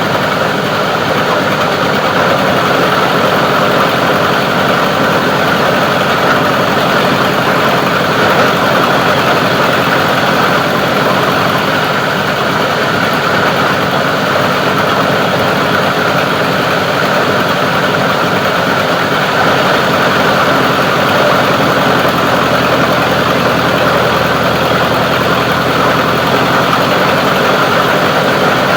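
Plastic recycling grinding machine running steadily, a loud continuous mechanical noise with no let-up or change.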